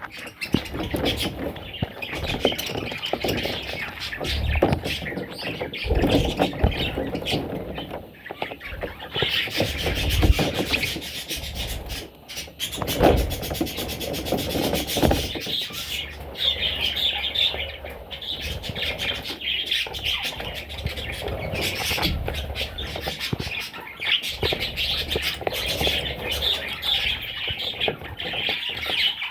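Budgerigar chicks cheeping continuously in high, rapid chirps, with scattered knocks and rustles.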